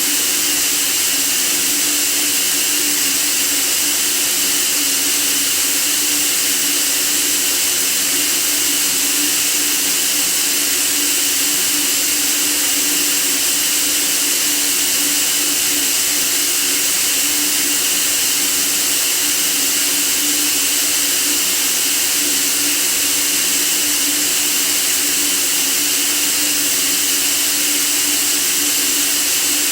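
Steady, unchanging white noise hiss, loudest in the high range, with a faint low hum beneath it.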